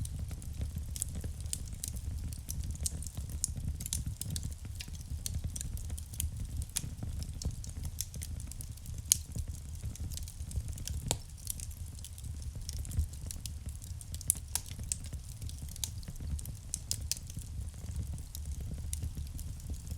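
Wood fire burning in a fireplace: dense, irregular crackles and pops over a steady low rumble of the flames, with one louder pop about nine seconds in.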